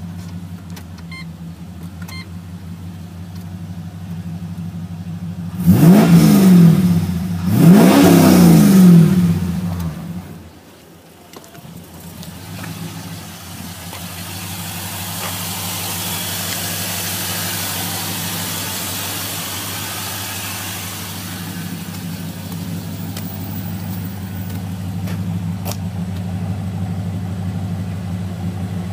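Holden Commodore VZ engine idling steadily, blipped twice in quick succession about six and eight seconds in, each rev rising and falling sharply before settling back to idle.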